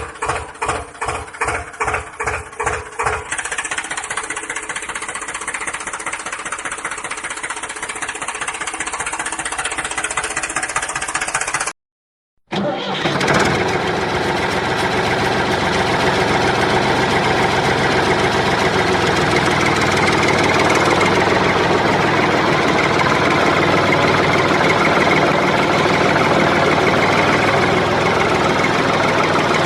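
A motor running steadily, starting with a pulsing beat of about four a second that evens out after about three seconds. Near the middle it cuts out abruptly for a moment, then comes back as a louder steady running sound.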